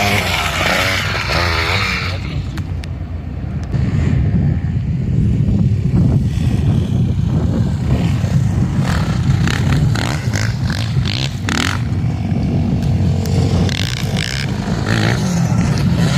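Motor vehicle engine running with a steady low drone. A rising rev comes near the start, and bursts of louder, higher engine and tyre noise come about nine to twelve seconds in and again near the end.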